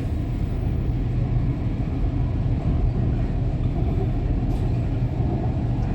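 Canada Line SkyTrain car running along the track, heard from inside the car as a steady low rumble.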